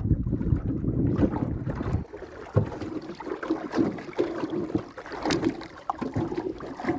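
Wind rumbling on the microphone aboard a small boat, cutting off about two seconds in, followed by scattered knocks and clatter.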